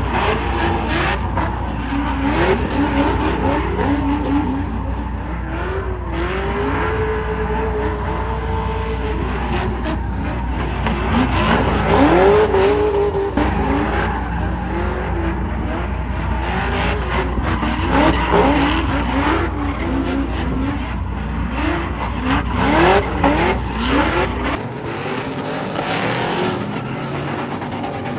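Car engine revving up and down over and over, with tyres skidding and squealing. A steady low rumble underneath cuts off suddenly near the end.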